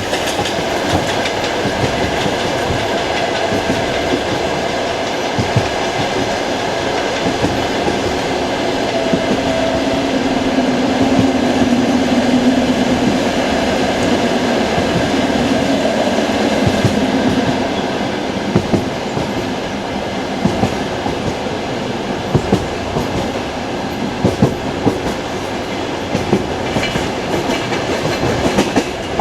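Passenger train carriage wheels clattering over rail joints under a steady running rumble, heard from inside the carriage at the window. A low hum swells and grows louder from about a third of the way in, then fades away a little past the middle.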